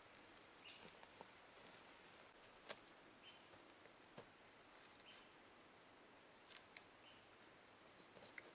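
Faint forest ambience: a short high chirp, likely a bird, repeats about every two seconds, with a few soft crunches and snaps of footsteps on dry pine needles and twigs.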